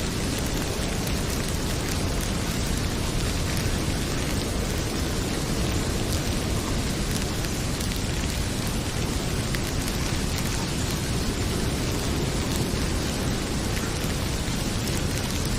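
Heavy rain pouring steadily, with a wood fire in a fireplace crackling in a few faint pops over it.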